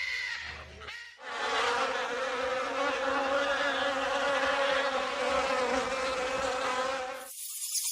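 A flying insect buzzing steadily, a low hum with overtones, for about six seconds. It starts a little after the first second and cuts off suddenly near the end, giving way to a high hiss.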